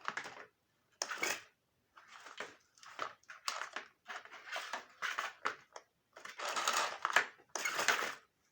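Hands handling and fitting the plastic parts and power cord of a vacuum cleaner during reassembly: irregular rustling and scraping, in short bursts with brief gaps.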